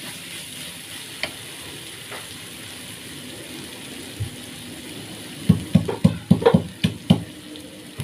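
Ground spice paste with bay and kaffir lime leaves sizzling steadily in a pan over medium heat. About five and a half seconds in, a quick run of about eight sharp knocks follows as the paste is stirred with a utensil against the pan.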